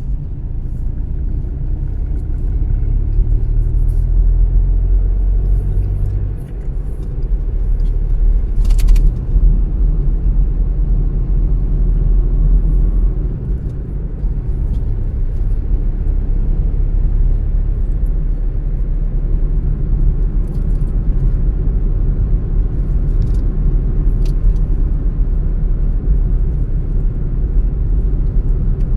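A car driving along the road: a steady, low rumble of engine and tyre noise. A sharp click or knock stands out about nine seconds in, with a few fainter ticks scattered through.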